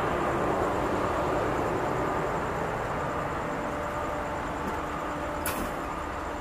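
Eastern & Oriental Express passenger carriages rolling past on the rails: a steady rumble of wheels with a few faint steady tones, and one sharp click about five and a half seconds in.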